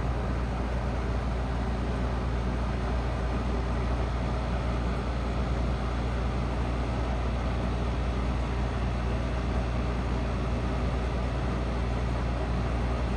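Trane Odyssey commercial heat pump's outdoor unit running steadily: a low compressor hum under an even rushing noise, with no change.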